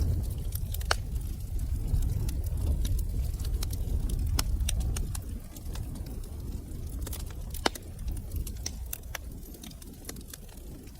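Wood fire burning in a fireplace, crackling with frequent sharp, irregular pops over a low steady rumble of flames. Two louder pops come about a second in and near the 8-second mark.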